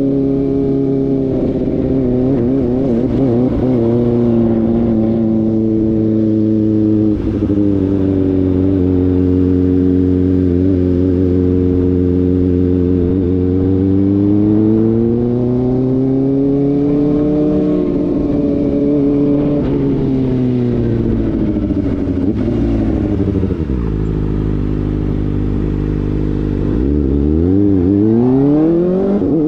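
Kawasaki ZX-4RR's inline-four engine through an SC-Project slip-on exhaust while riding, holding steady revs that rise and fall gently a few times. It drops to low revs about three-quarters of the way through, then revs up sharply near the end.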